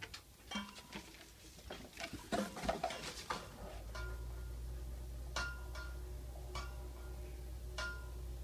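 Knocks and clicks, then about halfway in a garbage truck's engine starts a low, steady rumble. Over it come short, high beeps roughly once a second.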